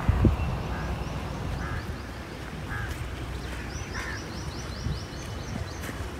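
Birds calling repeatedly in short notes, with a fast high chirping run in the second half, over wind rumbling on the microphone.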